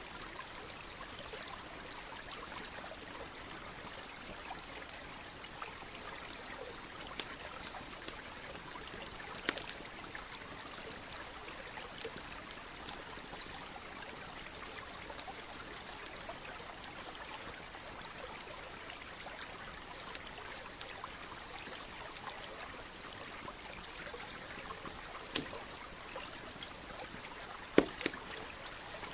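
Campfire crackling with scattered sharp pops over the steady trickle of a stream. The loudest pops come about two-thirds of the way in and again near the end.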